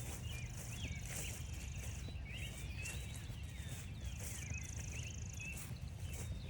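Several songbirds singing at once: many short chirps and slurred notes, with a rapid high trill of about a second heard twice. Under it, footsteps crunching on frosty grass and a steady low rumble.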